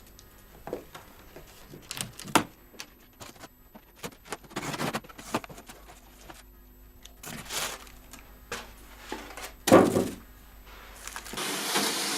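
Cardboard box being opened and its packaging handled: scattered knocks and taps, with short stretches of scraping and rustling of cardboard and paper. A longer rustle comes near the end.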